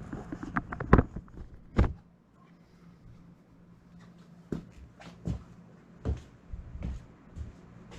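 Knocks and clicks of hand work on a motorcycle during an oil change: a quick run of light clicks with two sharp knocks in the first two seconds, then a pause and single knocks a little under a second apart.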